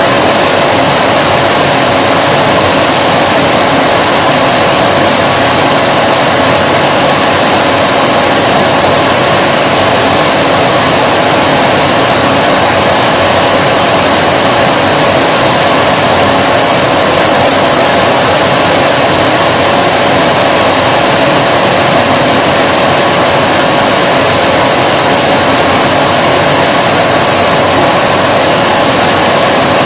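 Vacuum cleaner motor running steadily, a constant whooshing hum with a steady whine, unchanging throughout.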